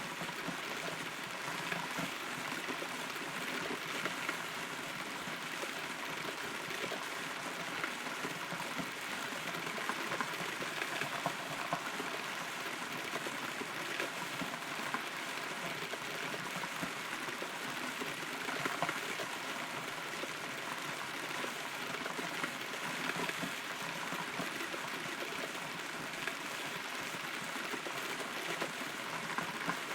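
Rain falling, heard from inside a hollow rotten tree trunk: a steady patter dotted with many small drop ticks.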